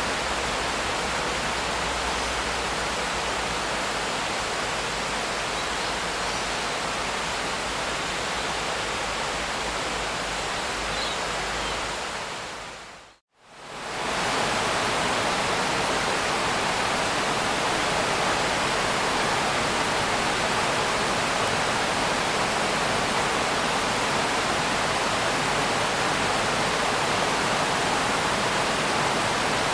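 Steady rain hiss. About thirteen seconds in it fades out to a moment of silence and comes straight back, as at the join of a looped recording.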